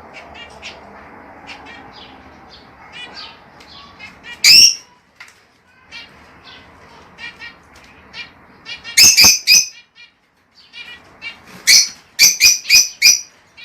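A flock of lovebirds chattering steadily with quick, high chirps, broken by loud shrill calls: one about four seconds in, three in quick succession around nine seconds, and five in a rapid run near the end.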